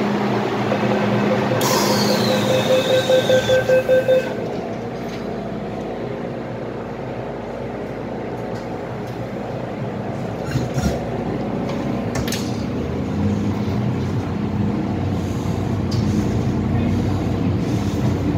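MTR Island Line M-Train: a rapid series of door-closing warning beeps for about two seconds near the start, then the train running with a steady rumble, with a couple of short knocks later on.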